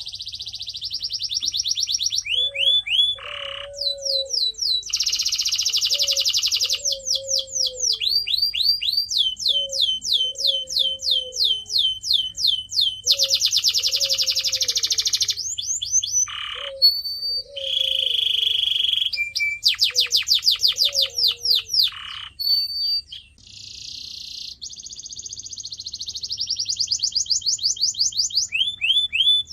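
Canary singing a long, continuous song of fast trills and runs of quick repeated whistled notes, changing phrase every second or two. Underneath, a softer, lower warbling note repeats about once a second until a few seconds before the end.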